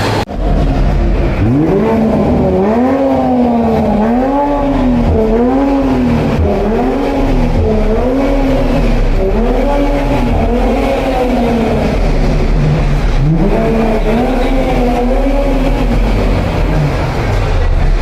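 A car engine being revved over and over, its pitch climbing and dropping about once a second, with a deep rumble underneath and a short pause about two-thirds of the way through.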